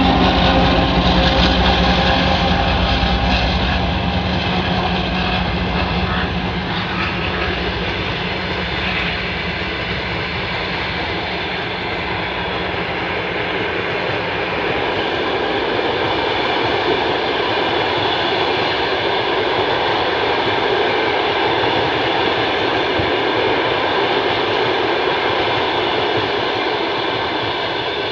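2TE10UK twin-section diesel locomotive and its passenger train passing. The locomotive's diesel engines drone steadily and are loudest in the first few seconds, then the train rolls by with a steady rumble.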